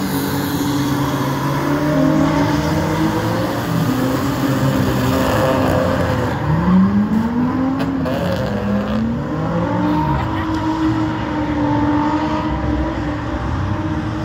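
Drift cars' engines revving on the track, the pitch climbing and dropping several times over a steady rushing noise.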